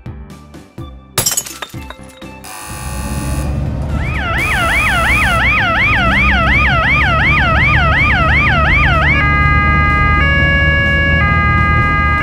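Cartoon sound effects over background music. There are a few clicks and short noisy bursts, then a fast yelping siren of about four rising wails a second for some five seconds, which gives way to steady held tones that step in pitch twice.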